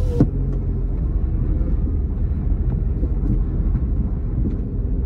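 Smart Fortwo engine idling, a steady low rumble heard from inside the cabin, with one sharp thump about a quarter second in. The car is running and selecting gears on a newly fitted Sachs clutch actuator.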